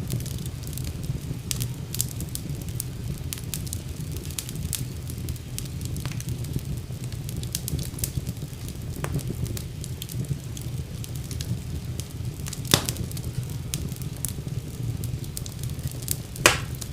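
Fire burning in a fireplace: a steady low rumble of flame with frequent small crackles, and two louder pops, one about three-quarters of the way through and one near the end.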